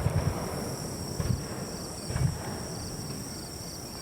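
Insects, crickets or katydids, chirping steadily in short repeated pulses over a continuous high trill. A few dull low thumps come through, the loudest about two seconds in.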